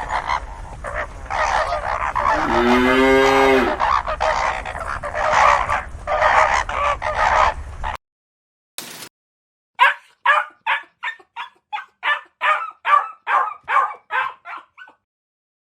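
A cow's single low moo among repeated honking calls of a flock of geese; after a cut, a goose honks about a dozen times in quick succession, roughly two to three honks a second.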